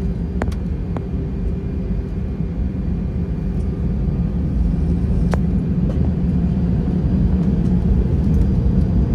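Steady low rumble of an Airbus A320 heard from inside the cabin, the engine and airflow noise of the airliner, with a few faint clicks.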